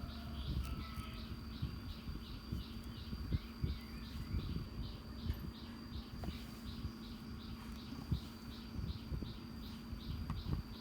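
A chirping insect, a steady high pulse repeating about four times a second, over a low steady hum and scattered faint knocks and clicks.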